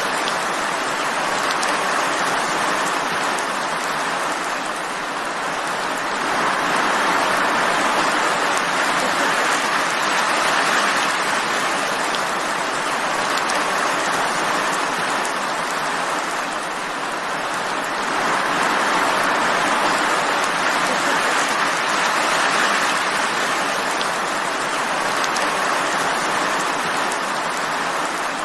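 Steady rain falling, a dense even hiss that swells and eases gently every several seconds.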